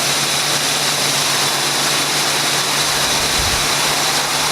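Truck engine running steadily, heard close as a loud, even rushing noise over a low hum, with a brief low rumble about three and a half seconds in.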